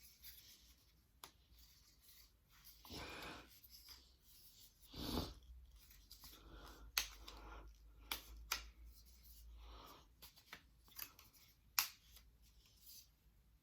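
A folding puzzle being handled and folded: soft rubbing and scraping of its pieces, with several sharp clicks as they are pushed into place.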